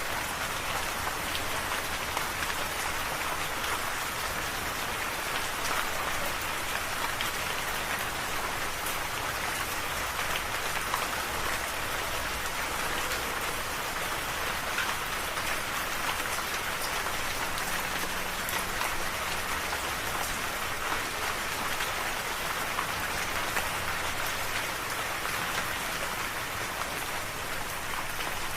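Steady rain falling, a dense even hiss of drops on a surface with fine individual drop ticks.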